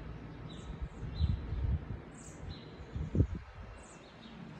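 Birds chirping: short, high calls that slide downward, repeated every half second or so. Low thumps from the phone being handled are the loudest sounds, about a second in and again about three seconds in.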